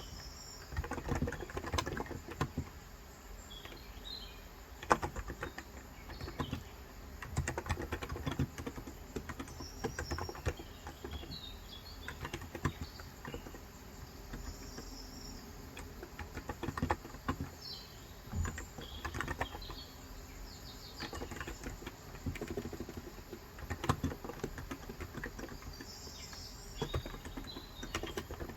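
Typing on a Cox Endeavor electro-capacitive (Topre-style) keyboard with 35 g switches, keystrokes coming in short runs with brief pauses between them. Birds chirp now and then in the background.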